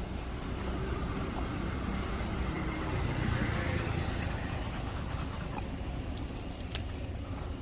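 A car passing by, its road noise swelling to a peak about halfway through and then fading.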